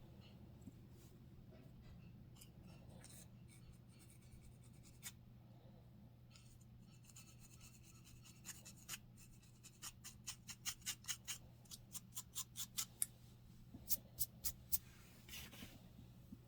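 Close-up scratching of dandruff on a scalp: short, dry scraping strokes, a few scattered at first, then a quick run of about two or three a second from roughly halfway. A low steady hum runs underneath.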